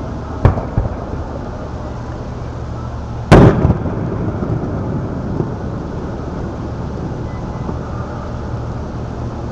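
Aerial fireworks shells bursting: a sharp boom about half a second in with a smaller crack right after it, then a louder boom about three and a half seconds in that rolls on briefly.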